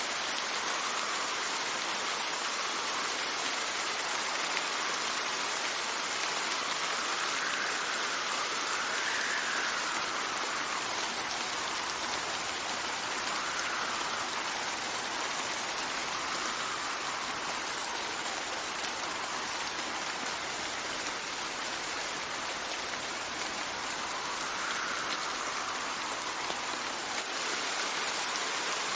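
Steady rain falling, a continuous even hiss, with wind swelling and fading in soft gusts several times.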